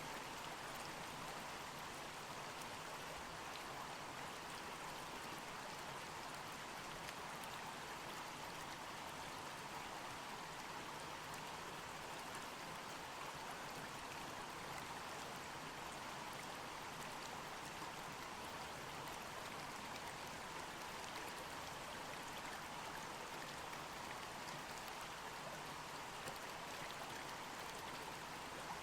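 Water rushing steadily at a canal lock, an even, unbroken splashing hiss that neither rises nor falls.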